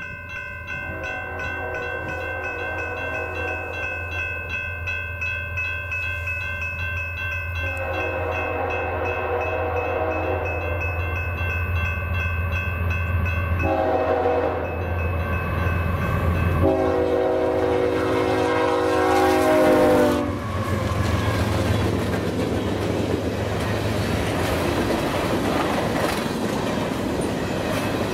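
Freight train's diesel locomotive sounding its multi-chime air horn in four blasts, long, long, short, long: the grade-crossing signal, over the low drone of the engine. After the last blast, about 20 seconds in, the horn stops and the rolling freight cars rumble and clack past.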